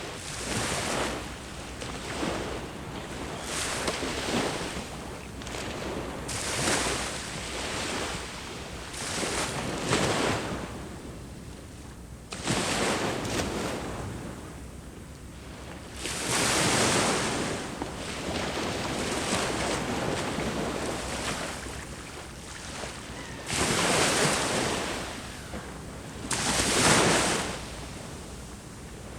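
Ocean waves breaking on a shore, the surf swelling and falling away in irregular surges every few seconds, with the loudest breakers near the end. A light wind blows across the microphone.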